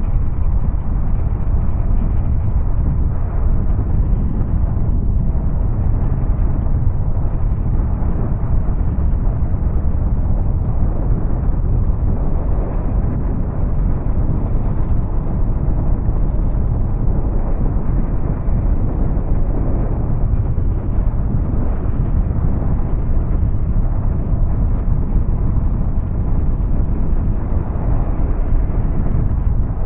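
Honda Rebel 300 motorcycle on the move: heavy, steady wind rumble on the microphone with the engine running beneath it.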